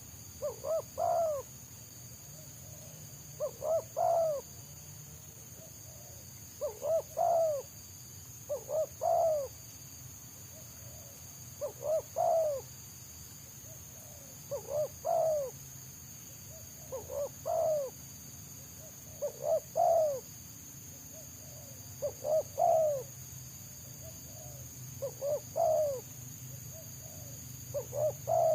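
Spotted dove (tekukur) cooing. The same phrase repeats about every two to three seconds: a couple of short notes, then a longer coo. A steady faint high ringing from insects sits underneath.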